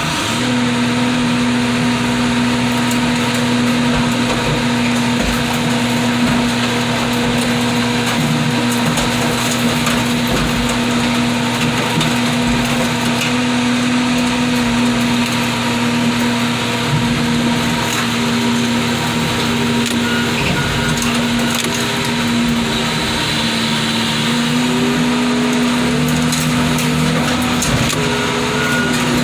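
A car crusher's engine and hydraulics run steadily under load as the crusher lid comes down on a GMC Value Van bread truck. The engine's pitch dips and rises slightly now and then, with scattered cracks as the van's body gives way.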